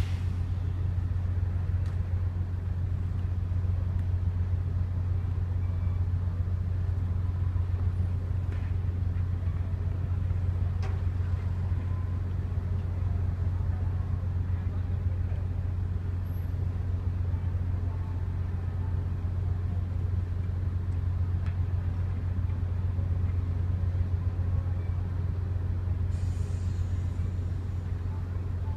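Ferry's engine running with a steady low drone, heard on board, with a few faint clicks and knocks over it.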